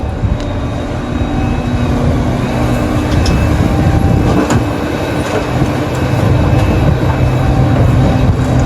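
Heavy diesel mining machinery at work: a steady, loud, low engine drone with a few sharp clanks, growing a little louder toward the end.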